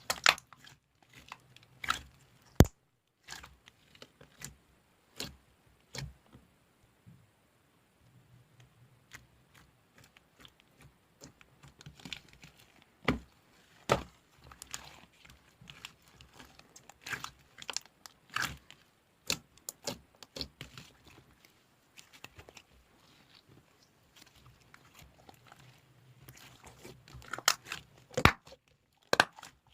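Slime being squeezed, stretched and poked by hand, giving irregular sticky crackles and sharp pops, with busier stretches in the middle and near the end.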